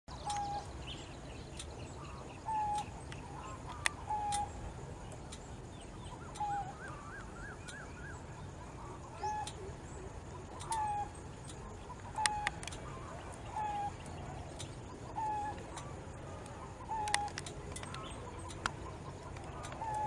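A bird calling with a short note repeated roughly once a second, with another bird's brief wavering trill about a third of the way in and scattered sharp clicks.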